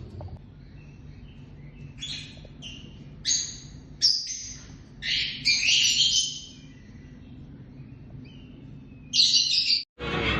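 Lovebirds chirping and screeching in short sharp bursts, several calls close together from about two to seven seconds in and another burst near the end, over a faint low steady hum.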